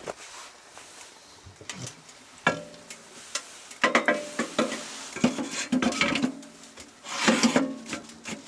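Metal cookware and utensils clattering and clinking, with some strikes leaving a short metallic ring. The knocks come thicker and louder from about halfway through.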